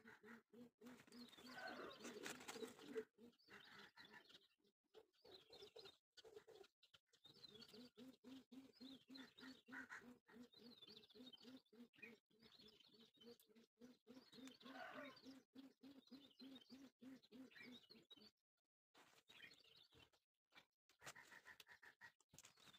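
Faint bird calls: chirps over a low call repeated about three times a second, which stops about eighteen seconds in.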